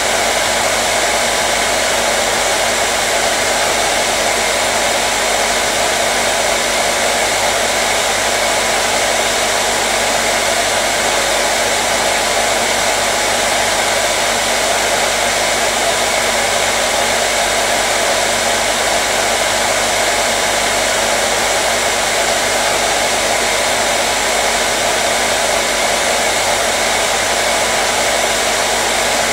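Hair dryer running steadily on one setting, a constant airy whoosh with a faint motor hum, used as white noise to soothe a colicky baby.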